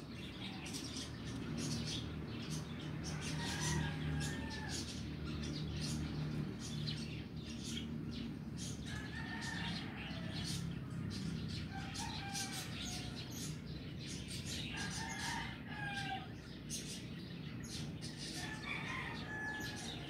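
Birds calling in the background: many short, sharp chirps throughout, with a longer call every few seconds, over a steady low hum.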